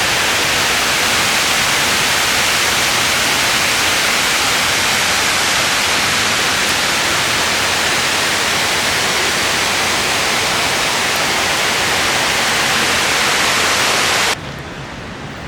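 A loud, steady hiss of even noise with no pitch or rhythm, which cuts off suddenly near the end.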